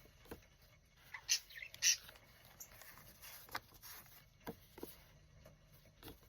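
Paper craft pieces being handled: soft rustles and small taps, with a few short bird chirps in the background, the two most prominent about a second and two seconds in.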